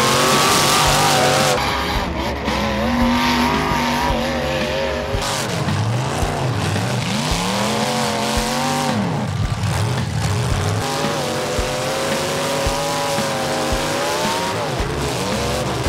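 Several demolition derby cars' engines revving hard, their pitch rising and falling again and again, over the hiss of tires spinning in the dirt as the cars push against one another.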